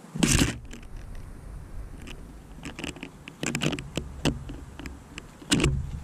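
Blue tit and great tit on a wooden feeder: a series of sharp knocks and scratches of beaks and claws on the wood as the birds peck, hop and change places. The loudest knocks come about a third of a second in and again near the end.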